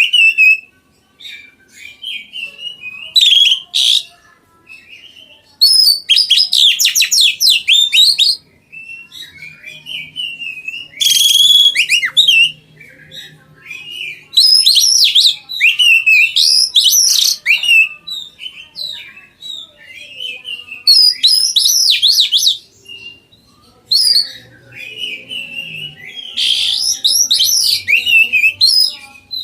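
Oriental magpie-robin singing: loud bursts of rapid, varied high phrases come every few seconds, with quieter twittering between them.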